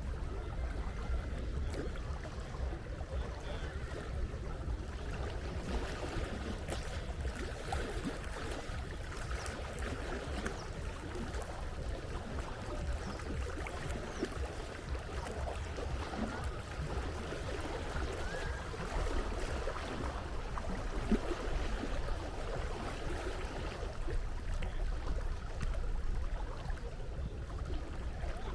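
Sea water washing and lapping continuously over a steady low rumble.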